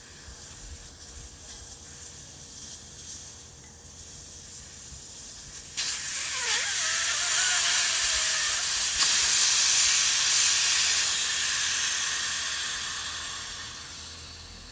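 Air rushing out of a motorcycle's front tire inner tube through the open valve stem with its core removed. The hiss turns suddenly loud about six seconds in, with a faint whistle, then slowly dies down as the tube empties.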